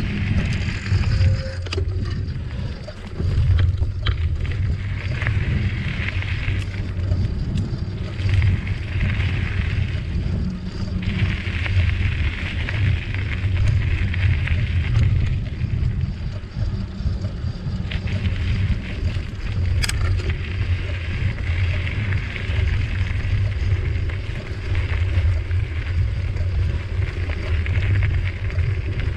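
A bicycle riding along a forest trail, with its tyres hissing over the ground in patches. Wind rumbles heavily on the microphone throughout. A single sharp click comes about twenty seconds in.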